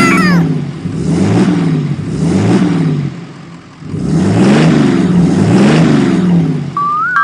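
Vehicle engine revving up and down over and over, about once a second, with a short lull about halfway. Near the end a higher warbling tone begins.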